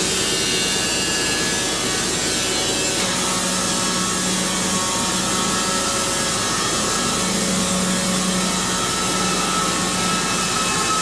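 Diesel-powered band sawmill cutting a pine log: the blade running steadily through the wood over the engine's hum.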